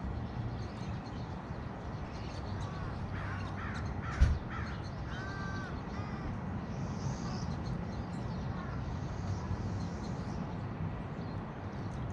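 A crow cawing a handful of times in quick succession a few seconds in, with one sharp thump in the middle of the calls, over a steady low outdoor rumble.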